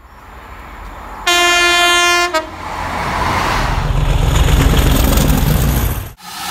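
Train horn sounding one long note and then a brief second note, followed by the rising rumble and rail noise of a locomotive-hauled passenger train passing at speed.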